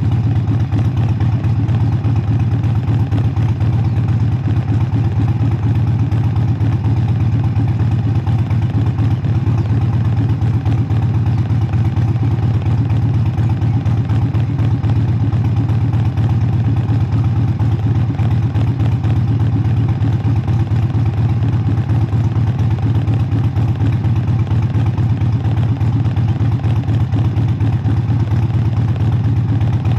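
Harley-Davidson motorcycle's V-twin engine running steadily during a ride, a deep, even engine note with no revving changes.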